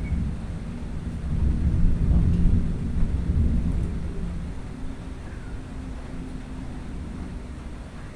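A low roll of thunder that builds about a second in, is loudest around two to three seconds, then slowly fades away.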